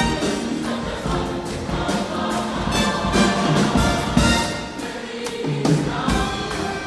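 A choir singing sustained, many-voiced chords, with instrumental accompaniment underneath.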